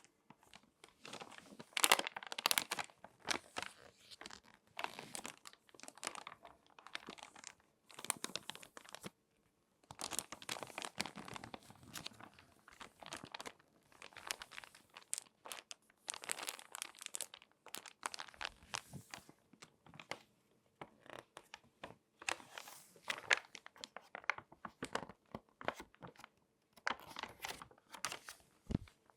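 Glossy magazine pages being folded and creased by hand, crinkling in irregular clusters with short pauses between.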